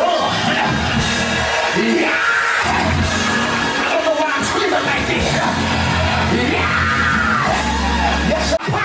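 Live church worship music with a steady bass line, and voices shouting and singing over it.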